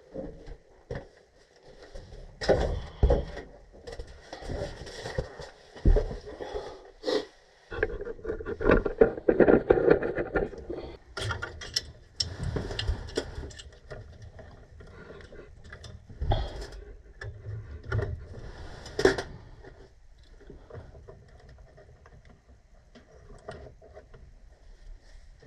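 Irregular knocks, clicks and scraping from hands working with tools and metal parts, with a dense patch of clatter about ten seconds in and sharp strikes near the two-thirds mark, then quieter handling toward the end.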